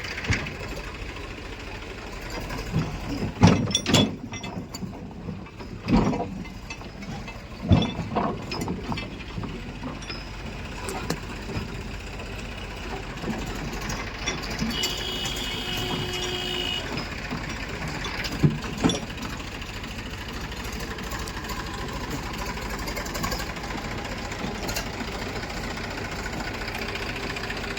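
Heavy diesel machinery running steadily at the mud loading, with several loud clanks and thuds in the first third and two more about two-thirds of the way through.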